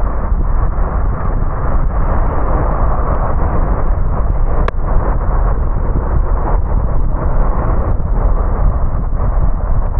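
A car driving in the rain: steady rumbling road and rain noise. There is a single sharp click about halfway through.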